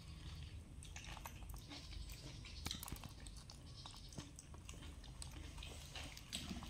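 Faint eating sounds: chewing and small scattered clicks and rustles of hands handling fried cakes, over a low steady hum.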